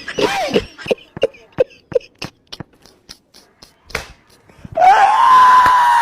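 A short run of light clicks or taps, about three a second, then about five seconds in a person lets out one long, high scream that holds its pitch and is the loudest sound here.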